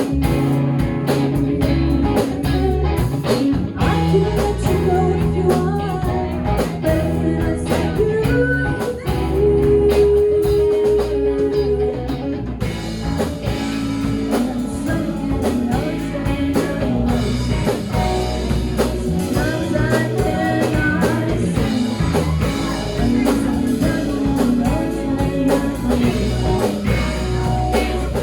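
Live rock band playing a blues-tinged song led by guitar, with singing at times.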